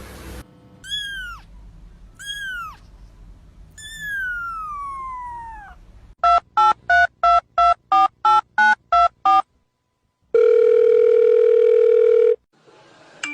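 Three falling whistled calls, the last one long, then ten quick evenly spaced telephone keypad beeps like a number being dialled, followed by a steady tone lasting about two seconds.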